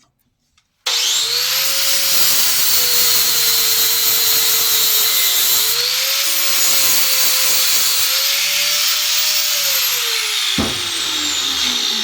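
Handheld electric power tool switched on about a second in and run loud and steady on metal, its motor pitch dipping and recovering as it bears on the work; switched off near the end, its whine falling as it winds down.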